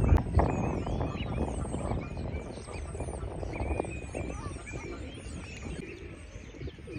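Small birds chirping in many short, quick calls, over a low rumble that fades over the first few seconds; a sharp knock sounds just after the start.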